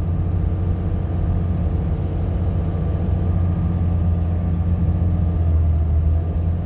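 Steady low drone of a car's engine and tyres on the road, heard from inside the cabin.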